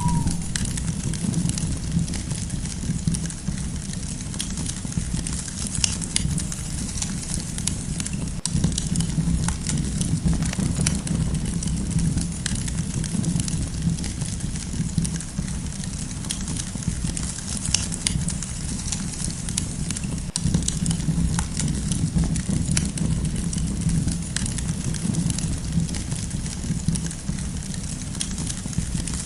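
Campfire crackling, with frequent sharp pops and snaps over a steady low rumble from the burning fire.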